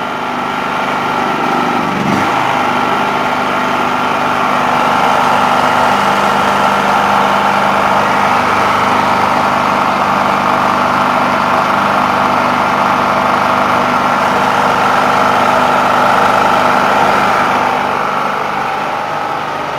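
Small portable generator's engine running steadily on gas just after being switched over from petrol, with its choke held part-open. The sound swells slightly a few seconds in and eases off near the end.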